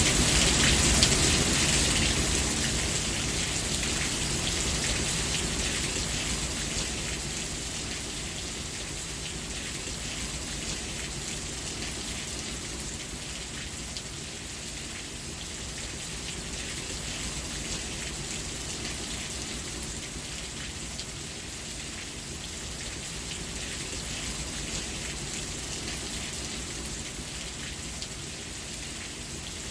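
Steady rain falling, an even hiss of many drops. It is louder for the first few seconds, then eases to a constant level.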